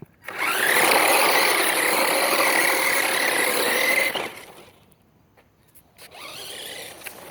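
Remote-control truck's motor whining at speed: the pitch rises quickly, then holds steady for about four seconds before cutting off. A second, quieter run starts near the end.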